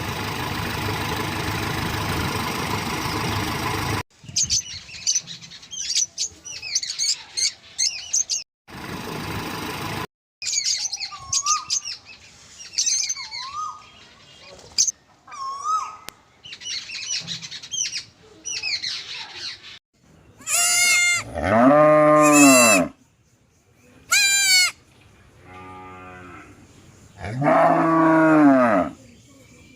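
A sequence of farm-animal sounds joined by hard cuts: a steady hum, then birds chirping, then cattle mooing in long calls that rise and fall, with bleating between the moos.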